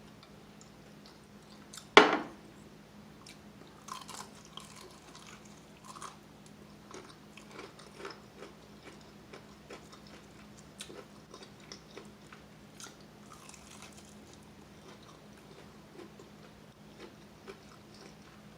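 A loud crunch of a bite into a crispy breaded fried chicken wing about two seconds in, followed by close-up crackly chewing of the crunchy breading.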